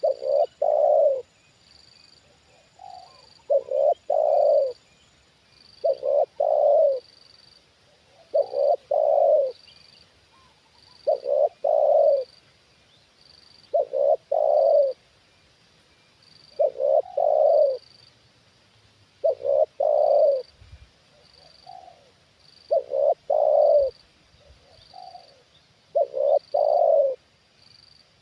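Spotted dove cooing: a short phrase of a few low, run-together coos, repeated steadily about every two and a half to three seconds.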